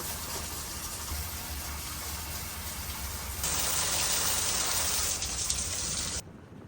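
Steady rush of water, growing louder and brighter about three and a half seconds in, then cutting off abruptly a little after six seconds.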